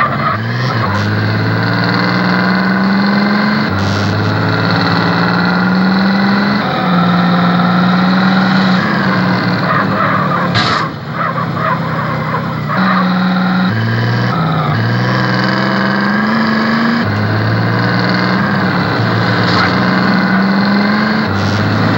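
Chevrolet Nova's engine running, its pitch stepping up and down with light revs, with a short dip in level about eleven seconds in.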